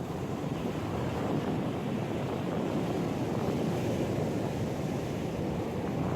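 Ocean surf washing onto the beach, mixed with wind buffeting the microphone, making a steady low rushing noise.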